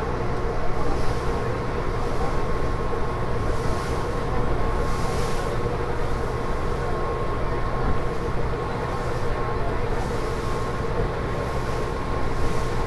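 A river ferry's engine running steadily: a constant drone with a thin, steady whine above it.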